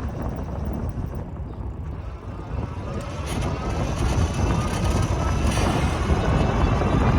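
Ride1UP Revv1 electric bike being ridden: a low rumble of wind and road, with the motor's whine coming in about three seconds in and rising slowly in pitch as it speeds up. A few sharp rattles sound over it, the rattling noise the owner is trying to show.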